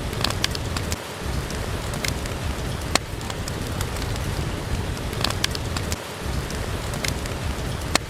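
Steady rain with a low rumble underneath, mixed with scattered sharp pops and crackles from a wood fire in a fireplace.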